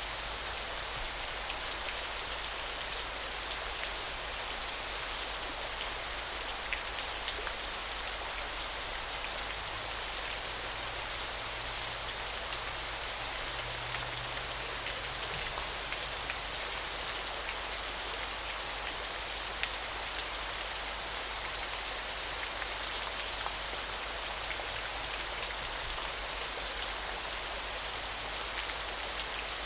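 Steady rush of running water, an even hiss with no breaks. Over it, a thin high trilling sound comes in repeated phrases of a second or two and stops about three quarters of the way through.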